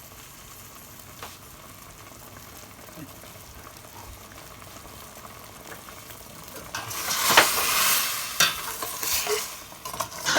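Chicken adobo in soy sauce and vinegar sizzling in a pot, faint and steady at first, then louder from about seven seconds in, with a few clicks of a utensil stirring against the pot.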